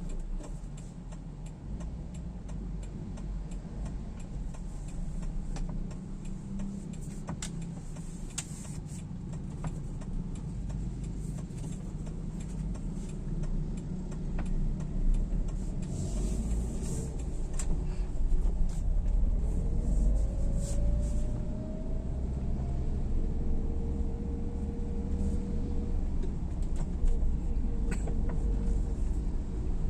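Road vehicle travelling along a street: a steady low engine and road rumble that grows a little louder past the middle, with scattered ticks and a brief rising whine about two-thirds of the way in.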